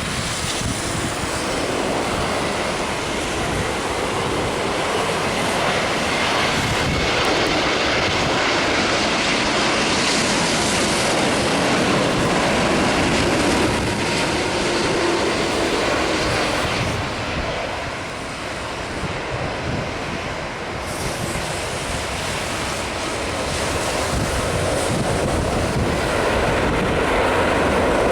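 Airliner's engines running as it passes on landing, a broad steady rush over a hiss, dipping briefly about two-thirds through and building again near the end.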